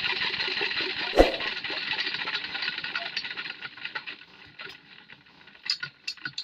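Borewell pump engine running and dying away, with one sharp knock about a second in and a few light clicks near the end.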